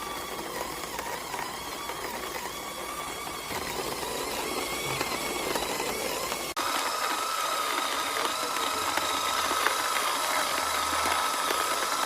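Simplus electric coffee grinder's motor running with a steady whine. About six and a half seconds in, the whine jumps suddenly to a steadier, slightly higher pitch.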